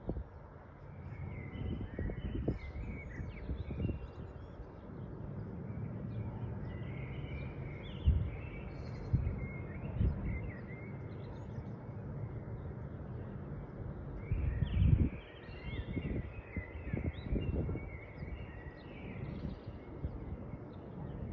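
Birds chirping, with many short high calls throughout, over a steady low rumble broken by a few thumps, the loudest about 8 and 15 seconds in.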